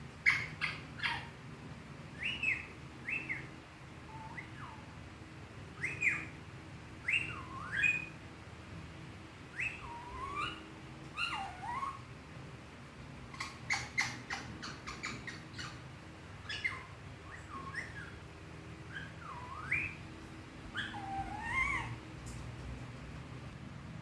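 Pet parrot whistling and chirping: a long run of short whistles that swoop up and down in pitch, with sharp clicks in between.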